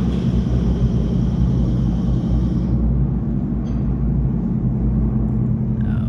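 Aircraft engine droning as a steady low rumble, with a faint high hiss that cuts off about halfway through.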